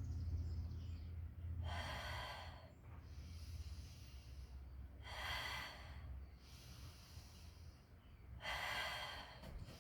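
A woman's deep, audible breathing while holding a one-legged yoga balance pose: three loud breaths about three seconds apart, with quieter breaths between.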